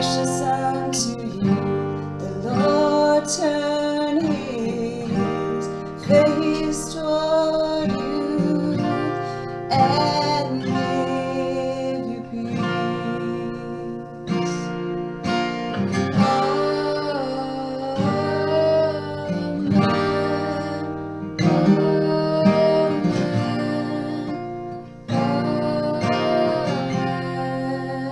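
A song sung to a strummed acoustic guitar, the voice holding long notes between phrases.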